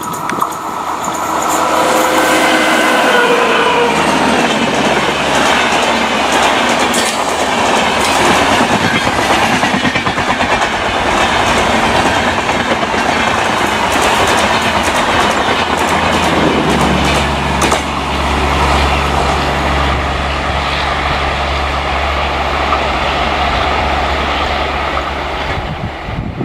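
Double-decker passenger express hauled by a WAP-5 electric locomotive passing close by at speed: a loud, steady rush of wheels on rail with rapid clickety-clack over the rail joints. A few tones sag slightly in pitch over the first few seconds, and a low steady hum joins in over the last third.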